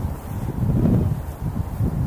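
Wind buffeting the microphone: uneven low rumbling gusts, swelling loudest about a second in.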